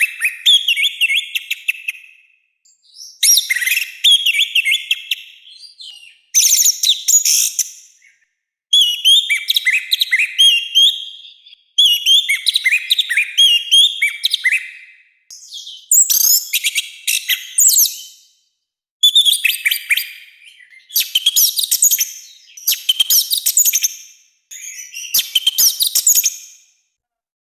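Orange-headed thrush singing a loud, harsh song in about ten short phrases of one and a half to three seconds each, separated by brief pauses. Each phrase is a rapid run of high whistled notes, slurs and trills.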